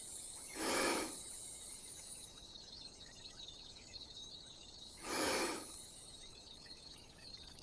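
Faint night-time outdoor ambience of insects chirring steadily, with two soft whooshes, one about a second in and one about five seconds in.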